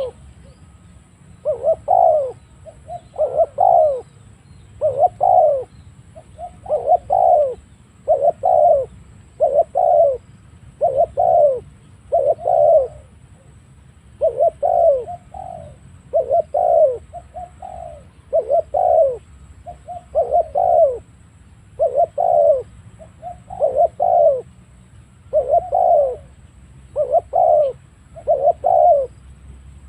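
Spotted dove cooing over and over, one short phrase about every second and a half to two seconds.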